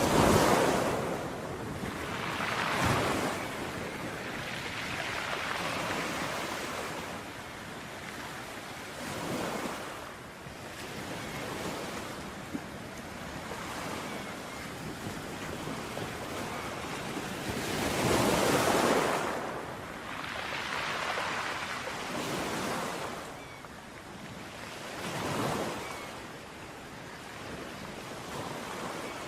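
Ocean waves breaking on a beach, a continuous wash of surf that swells and falls back in surges every few seconds, the biggest near the start and about two-thirds of the way through.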